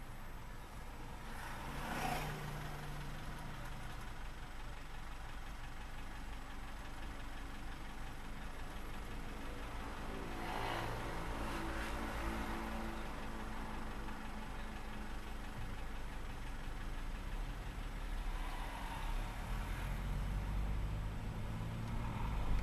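A vehicle driving, with an abnormal noise that comes in as it starts to turn. It rises about three times over the steady low running sound: around two seconds in, from about ten to thirteen seconds (with a tonal groan), and around nineteen seconds.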